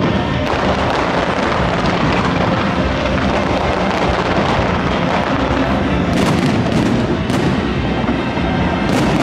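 Fireworks display: a continuous rumble of bursting shells, with a run of sharp bangs and crackles from about six seconds in.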